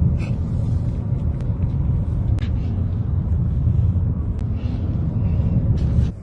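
Steady low rumble of a car driving, with a few faint clicks over it. The rumble cuts off sharply near the end.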